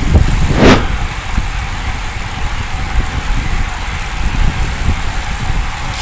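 Wind buffeting the microphone and road noise on a ride, a steady rumble and hiss with one brief loud whoosh under a second in.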